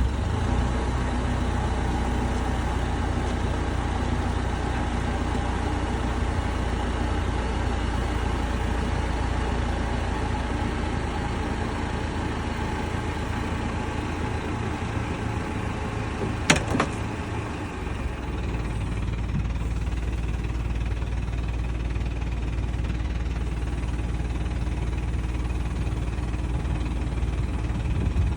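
An engine idling steadily, with one sharp click about sixteen and a half seconds in.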